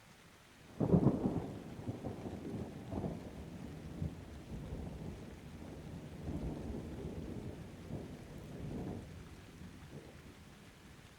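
Thunder: a sudden loud crack about a second in, then a long low rumble that swells again a few times and fades away near the end, over light rain.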